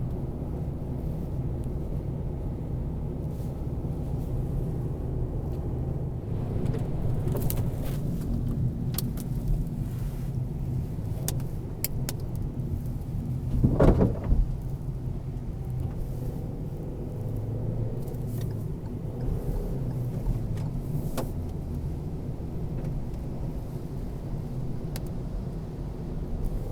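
Car driving, heard from inside the cabin: a steady engine and road rumble with a few light clicks, and a brief louder rush about halfway through.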